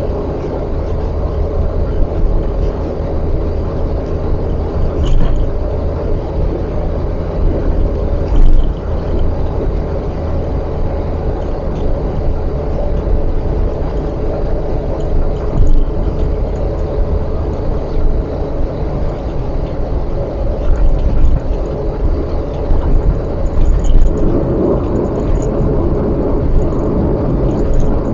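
Steady low rumble of a car driving at speed on an expressway, engine and tyre noise together, with a few brief clicks and knocks.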